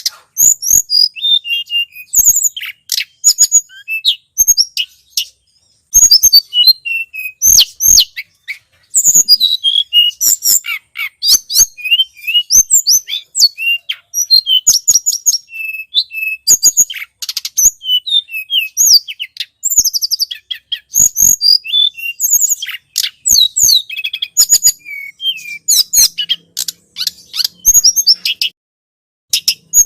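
Recorded song of a tledekan gunung, played as a bird-lure call: rapid, high-pitched chirps and short trills in quick repeated bursts, breaking off briefly near the end.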